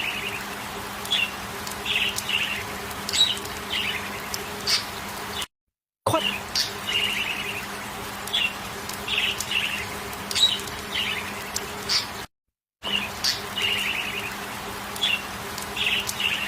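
Small birds chirping: short chirps and quick trills, some sliding down from high notes, over a faint steady low hum. The sound cuts out briefly twice and the same sequence of calls starts over each time.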